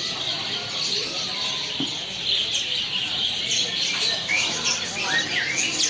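Many caged songbirds chirping and singing at once in a dense, continuous chorus, with a few short rising calls standing out from about four seconds in.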